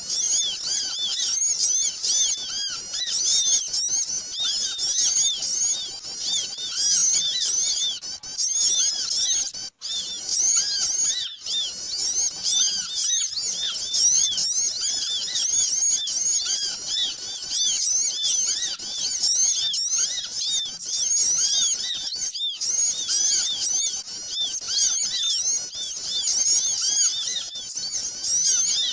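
A noisy chorus of many small birds chirping over one another in a dense, continuous tangle of short high-pitched calls: a bird-lure (pikat) recording used to draw in small birds.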